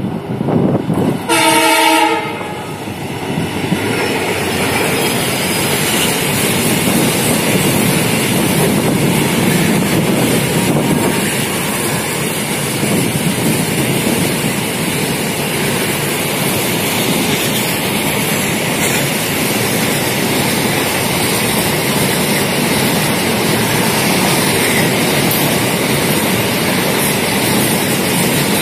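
Diesel locomotive horn, one blast of about a second just after the start. Then a speeding double-stack container train runs past close by, with a steady loud rush of wheels and wagons and clickety-clack over the rail joints.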